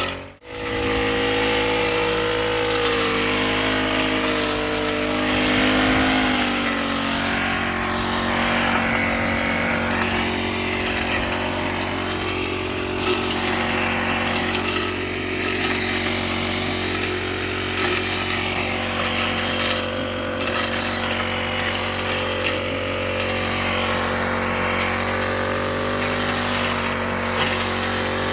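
Honda GX35 35.8 cc four-stroke brush cutter engine running at high speed, its pitch dipping and recovering over and over as the blade cuts through tall dhaincha stalks. The sound drops out briefly right at the start.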